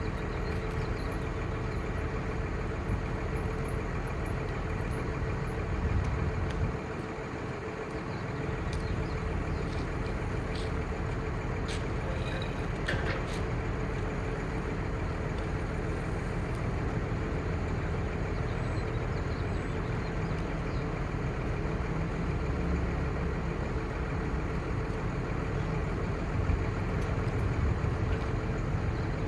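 A heavy truck's 5.9L Cummins six-cylinder turbo diesel running steadily at idle. Its low rumble dips briefly about seven seconds in, and a few light clicks come a little later.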